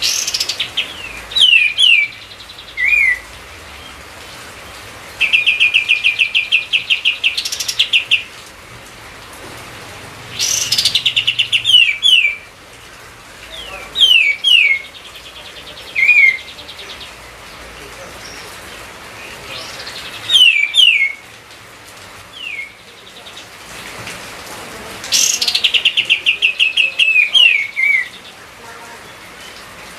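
Kapas tembak bulbul singing: loud phrases of rapid chattering trills, each followed by a few short down-slurred whistles, repeating every few seconds over a steady faint hiss.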